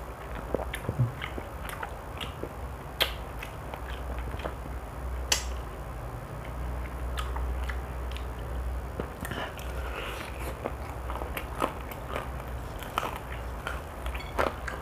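Close-up chewing and biting of crispy fried chicken, with scattered sharp crunches of the fried coating and wet mouth sounds, over a steady low hum.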